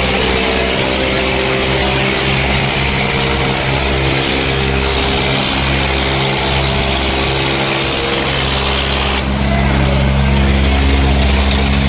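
Eicher 557 tractor diesel engines running steadily under load in a tractor tug-of-war pull, the engine note shifting and getting a little louder about nine seconds in.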